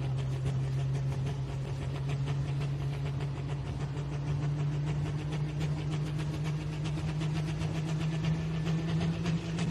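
Pro stock pulling tractor's big single-turbo diesel engine idling steadily, its pitch creeping up slightly.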